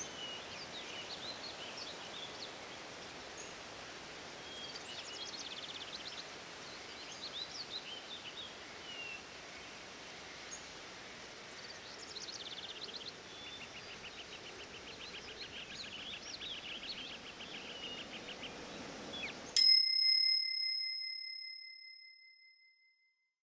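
Forest ambience with birds chirping and trilling over a steady background hiss. About twenty seconds in, the forest sound cuts off and a single bright bell-like ring sounds and fades away: the timer's signal marking the end of a one-minute yoga set.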